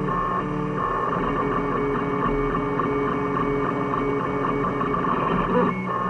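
Home-built 3D printer printing: its stepper motors sing in several pitched tones that shift every fraction of a second as the print head moves back and forth, over a steady low hum.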